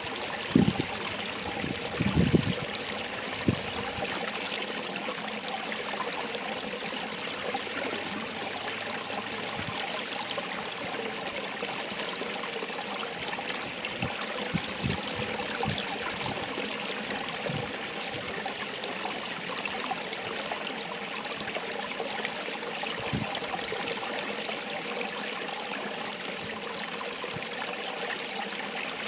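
Running water of a stream, a steady rushing with a few brief low bumps, the loudest in the first few seconds and another cluster about halfway through.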